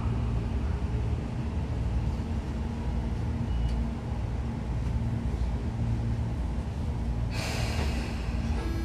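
Tobu 9000 series electric train heard from inside the car while running: a steady low rumble of wheels and running gear with a steady hum. About seven seconds in, a sudden loud rush of noise joins it.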